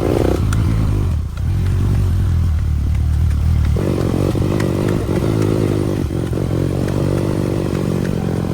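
Motorcycle engine running under load, with its sound growing fuller about four seconds in, and short clattering knocks on top.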